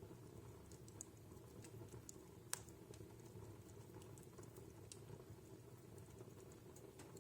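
Wood fire in a fireplace crackling faintly: scattered small ticks and pops over a low, steady rumble, with one sharp pop about two and a half seconds in.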